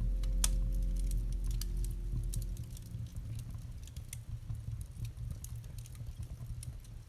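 Campfire crackling, with scattered sharp pops and ticks. A low piano chord dies away over the first two or three seconds, leaving the crackle on its own.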